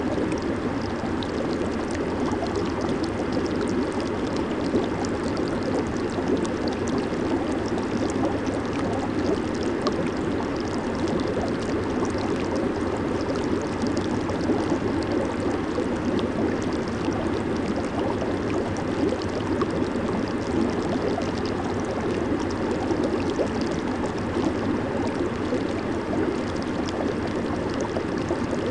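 Jacuzzi water bubbling and churning steadily, a constant rush of jets and air bubbles with fine fizzing on top.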